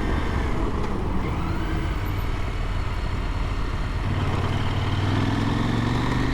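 KTM adventure motorcycle engine running under way, with wind rush over it; the engine note firms up and climbs slightly about four seconds in.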